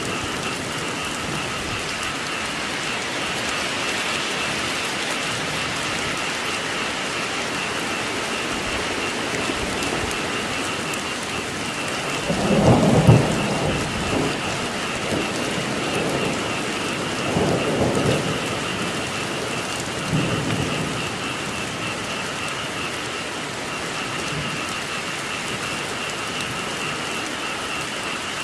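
Steady heavy rain with a frog chorus calling throughout. Thunder rolls in about twelve seconds in, rumbling in several swells over the next eight seconds and then dying away.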